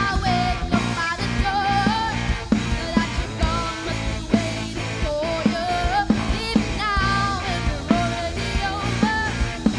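Live band playing a rock-style arrangement: a melody line with vibrato over a steady drum beat, bass and guitar.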